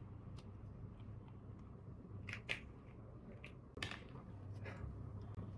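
Faint short clicks and crackles, about half a dozen, from handling and eating a freshly peeled ice cream, over a low steady hum.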